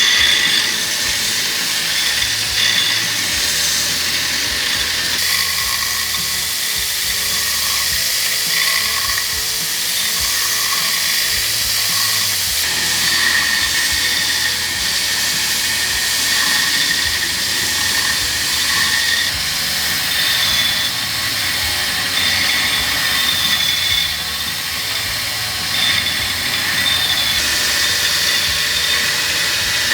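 Power tool running steadily against leaf-spring steel, with a continuous high-pitched whine and no hammer blows.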